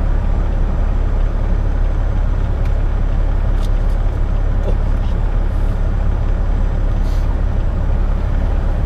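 Semi-truck diesel engine idling, heard as a steady low rumble from inside the cab.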